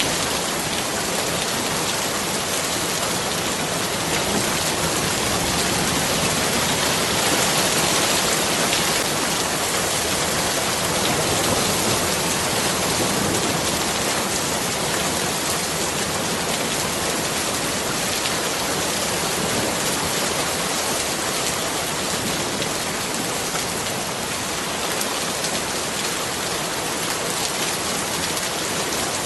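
Steady rain falling on surfaces, an even constant hiss.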